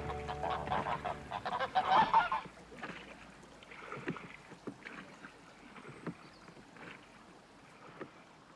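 A burst of loud, harsh bird calls in the first two seconds, then fainter scattered calls and short knocks.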